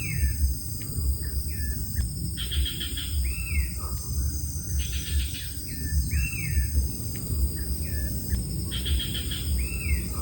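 A bird calling over and over: a rapid buzzy trill followed by a few short hooked whistles, the phrase coming about three times, over a low steady rumble.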